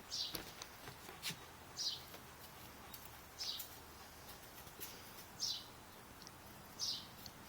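A bird repeating a short, high call that falls in pitch, five times at roughly one-and-a-half-second intervals, faint against a quiet background with a few soft clicks early on.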